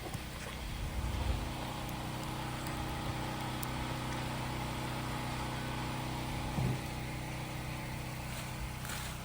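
Engine running steadily at a constant speed, a low even hum.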